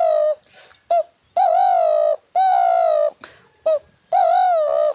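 A man imitating a kure dhukur dove with his voice, doing the call it uses to summon its companions: a short clipped note, then long wavering coos, repeated in a steady pattern of about four long notes.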